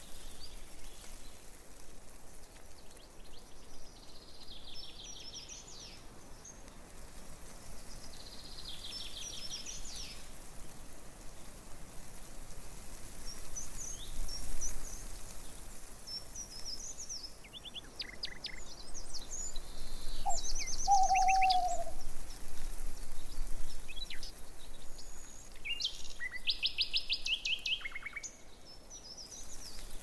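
Songbirds calling and singing: high chirps and short, rapid trills that come back every few seconds, with a lower slurred note about two-thirds of the way through, over a light steady outdoor hiss.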